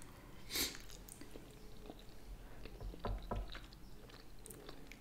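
Close-miked chewing of sushi nigiri: soft, wet mouth sounds, with a short smack about half a second in and faint clicks and smacks after.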